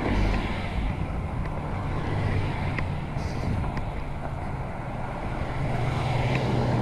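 Wind rushing over the action camera's microphone while riding a bicycle, with steady road noise and a low hum that grows louder in the second half.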